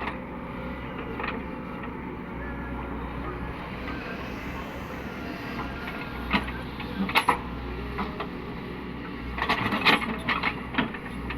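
Cat 307E2 mini excavator's diesel engine running steadily, with short bursts of sharp knocks and clatter about six to seven seconds in and again near the end.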